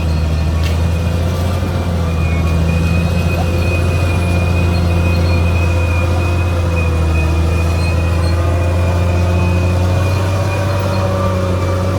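Bulldozer's diesel engine running steadily under load with a deep hum, a thin high whine sitting over it.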